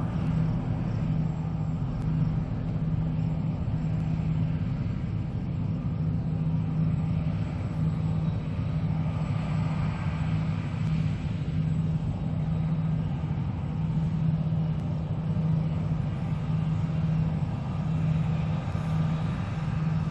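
John Deere S780 combine harvester running steadily at work in wheat, a constant low engine and machinery drone that swells and eases slightly every few seconds.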